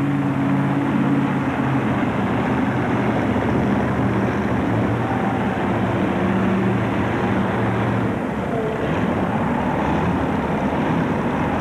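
Homemade three-engine modified pulling tractor's engines running steadily at a low, even pitch, with an arena haze of noise over them.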